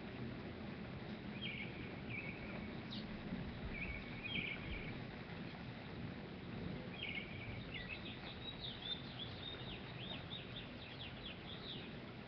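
Small birds chirping in short high phrases, with a quicker run of chirps a little past the middle, over a steady low outdoor rumble.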